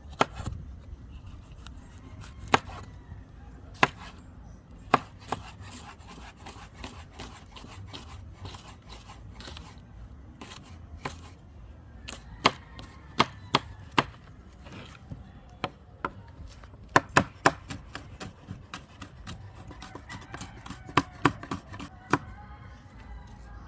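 A kitchen knife chopping on a cutting board: irregular sharp strokes, some in quick runs of several.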